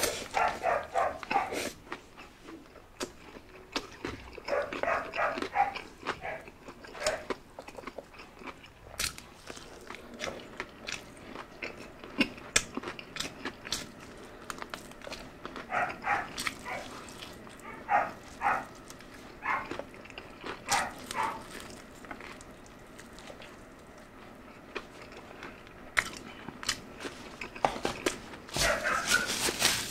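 Close-up biting and chewing of crispy fried chicken (Jollibee Chickenjoy), with sharp crunching clicks and wet mouth sounds. Short pitched sounds come in brief clusters now and then.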